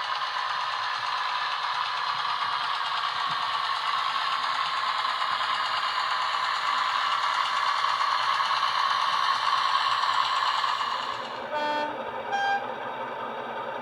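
Sound-decoder engine of a model British diesel locomotive running, growing louder and then easing off, followed near the end by a two-tone horn: a short low note, then a short higher one.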